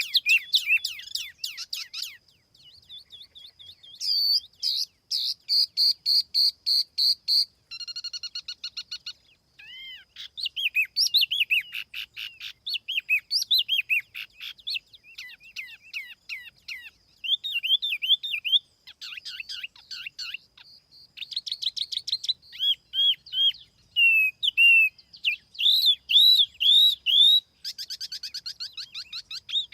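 Recorded song of the tiểu mi songbird, played as a lure call: a fast, varied run of high chirps, trills and repeated whistled notes in bursts, with short pauses between phrases.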